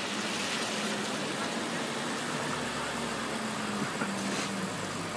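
Bentley Continental GT engine running at low revs as the car creeps forward at walking pace: a steady low hum, with a deeper rumble coming in about halfway through.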